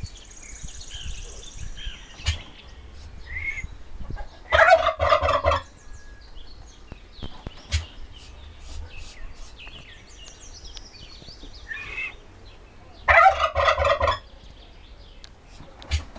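Turkey gobbling: two loud, rapid, rattling gobbles of about a second each, the first about four seconds in and the second near the end, with faint high chirps between them.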